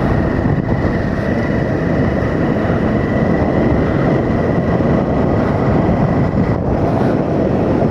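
Motorcycle on the move: steady engine, wind and road noise, with a thin steady whine that stops about six and a half seconds in.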